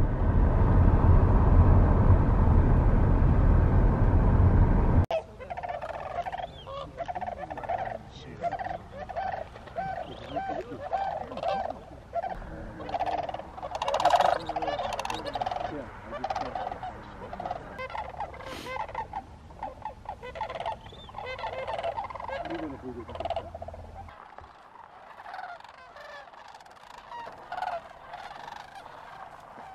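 A loud low rumble cuts off abruptly about five seconds in. It gives way to a flock of sandhill cranes calling, many rolling calls overlapping, which grow fainter over the last few seconds.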